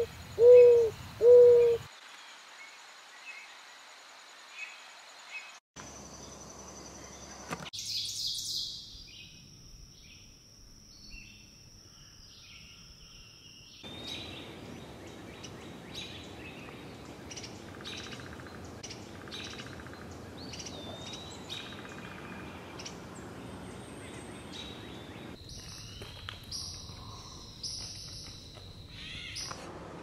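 Recordings of several different wild birds in turn. About three loud, low hoots in the first two seconds, then, after a quiet gap, a series of short high chirps, calls and whistled notes, with the clips changing abruptly every few seconds.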